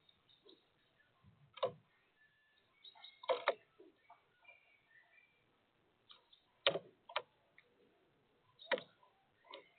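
Woodpecker pecking at sunflower seeds on a bird feeder: about six sharp, irregularly spaced taps, with a few faint short bird calls in between.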